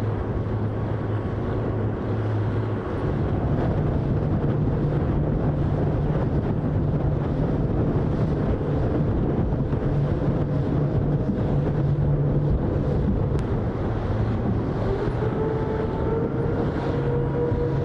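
A boat running fast on the water, with a steady low engine hum that steps up in pitch about three seconds in, under strong wind noise on the microphone; near the end a faint whine climbs slowly in pitch.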